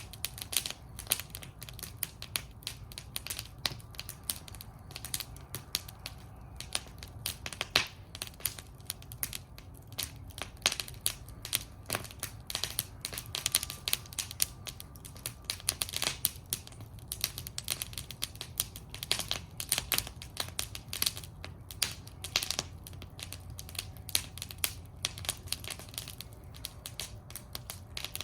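Wood fire burning in a metal fire bowl, crackling and popping continuously with many sharp irregular snaps over a low steady rumble of the flames.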